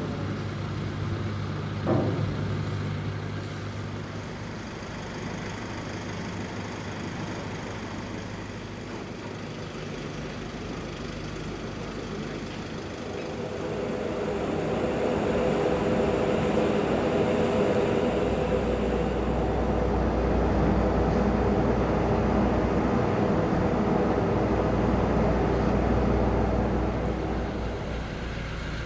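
Engine running steadily, with a single knock about two seconds in; the engine sound grows louder about halfway through, and a deep low hum joins it a few seconds later.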